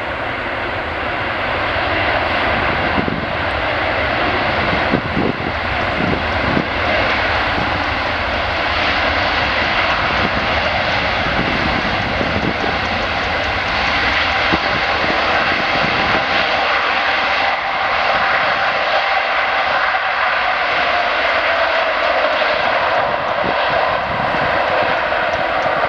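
Airbus A380's four jet engines on its landing, a steady jet noise that grows slightly louder, with a whine that slowly falls in pitch over the second half.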